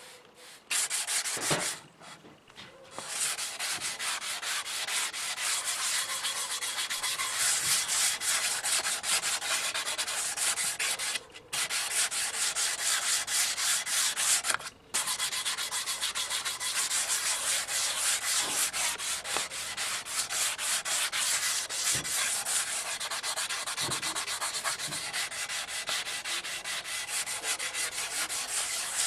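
Abrasive rubbing on the sewing machine's aluminium cover: a continuous rasping hiss that starts about a second in and breaks off briefly three times.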